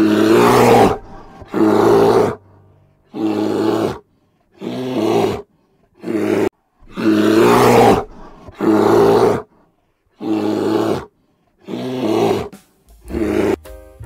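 A large animal's loud calls, repeated about ten times, each about a second long with short silent gaps between them.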